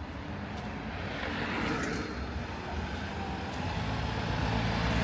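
City road traffic: vehicles driving past with engine hum and tyre noise, one passing loudest about two seconds in.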